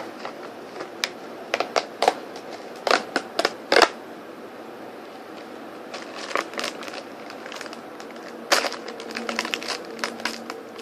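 A cookie's packaging being handled and opened: sharp crackles and clicks in clusters through the first four seconds, a quieter stretch, then more crackling from about eight and a half seconds in.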